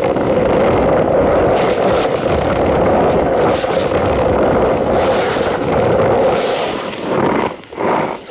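Cornstarch being squeezed and crushed by hand: a dense, continuous squeaky crunching that breaks off briefly near the end.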